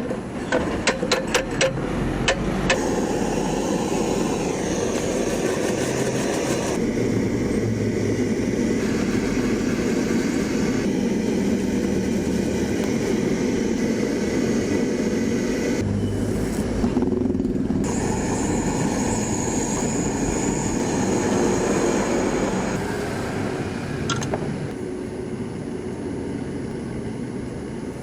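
Quick hammer taps on metal for the first couple of seconds, then a steady rushing noise through most of the rest, dropping somewhat near the end.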